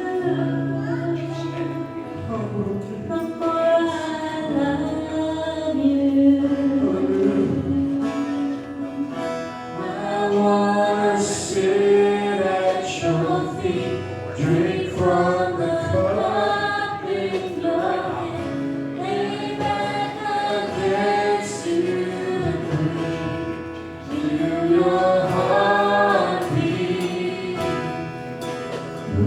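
Congregational gospel singing by several voices, backed by instruments including a guitar, during a church prayer line.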